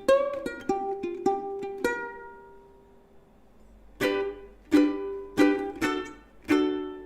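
Waterman by Kala plastic ukulele played with effects added: a few plucked notes, one left ringing and fading away, then strummed chords starting again about four seconds in.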